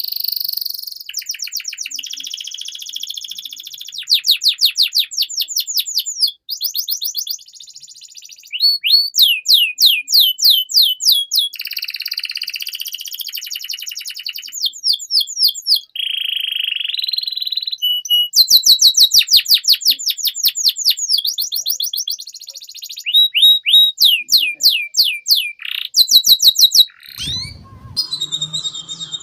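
Domestic canary singing a long song: fast trills of repeated falling notes, about eight to ten a second, alternating with buzzy rolls and a few short whistles.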